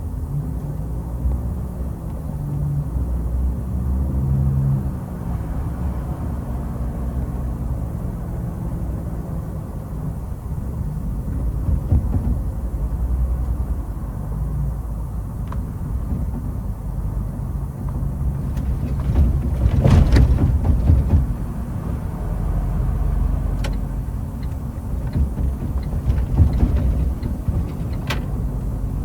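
Heavy truck's natural-gas (CNG) engine running under a steady low rumble, its pitch rising and falling during the first few seconds. A cluster of knocks and rattles comes about two-thirds through, with a few more clicks near the end.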